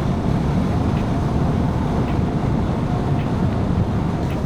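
Steady wind and riding noise from a moving motorcycle, heard through a microphone inside the rider's helmet, with a dull low rumble and no change in pace.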